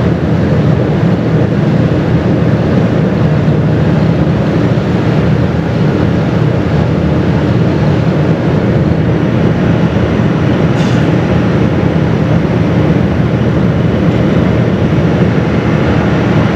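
Steady, loud rumble and rush of a car ferry under way, with the vessel's noise and wind on the microphone blended together and no change through the stretch.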